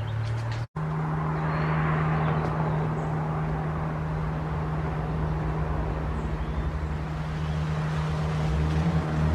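Car engine and exhaust idling steadily with a low, even hum; the sound drops out for an instant under a second in, as at a cut between clips.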